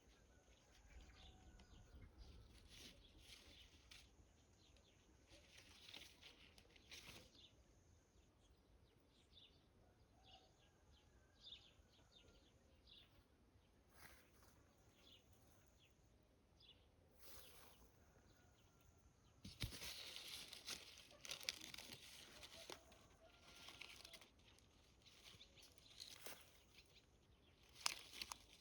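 Faint small birds chirping in short high calls, with bursts of rustling, like flapping wings, about two-thirds of the way through and again near the end.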